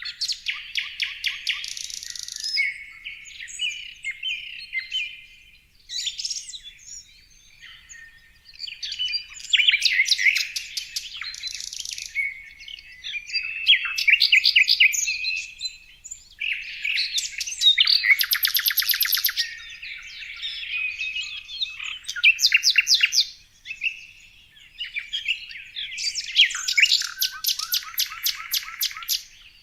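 Songbird song: phrases of rapid, high chirps and trills, each a few seconds long, separated by short pauses.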